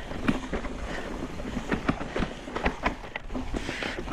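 Mountain bike clattering over a rough, rocky trail, with irregular sharp knocks and rattles over a steady low rumble of wind on the microphone.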